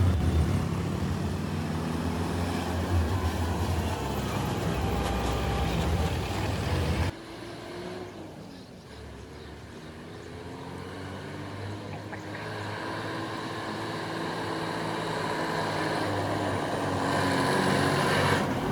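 Heavy road vehicles' engines labouring through a tight hairpin bend. For the first seven seconds one engine runs loud and close. It cuts off abruptly, and another engine comes in quieter, dipping and then rising in pitch as it grows louder toward the end.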